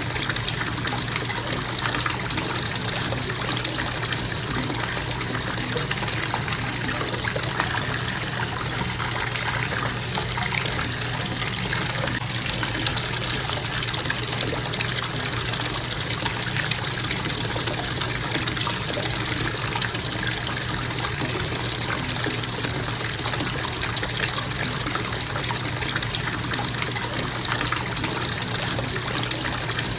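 Bathtub faucet running steadily into the tub, water splashing in an even, unbroken rush.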